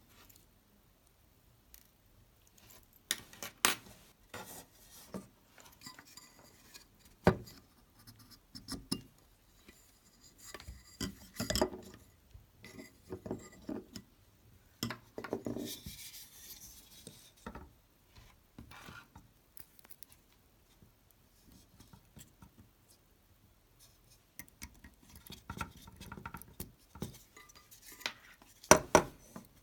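Mac Pro cooling fan parts and small hand tools being handled: irregular clicks, taps and scraping of small hard parts, with sharp knocks about 7 and 11.5 seconds in and a loud clatter near the end.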